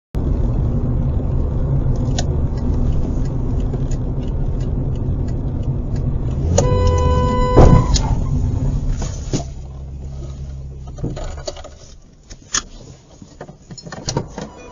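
Car on the move with a steady low engine and road rumble. About six and a half seconds in, a car horn sounds for a little over a second, with a sharp knock near its end. The rumble then dies down and a few scattered clicks follow.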